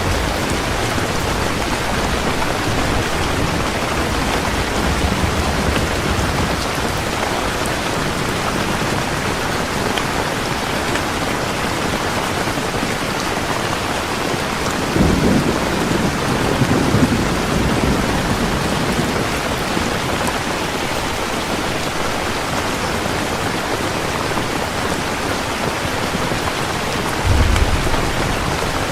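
Heavy rain falling steadily. Low rumbles of thunder come about halfway through and again briefly near the end.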